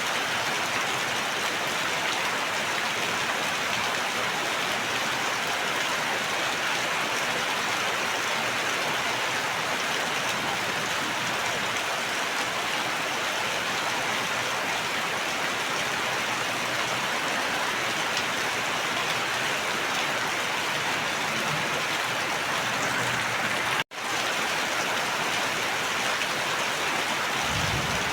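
Steady heavy rain falling in a dense, even hiss. It cuts out for an instant about three-quarters of the way through, then carries on unchanged.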